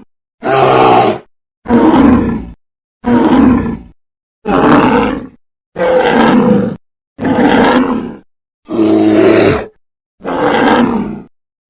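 Eight short bear roars from animated-film sound effects, played one after another. Each roar lasts about a second and is cut off cleanly, with a moment of silence before the next.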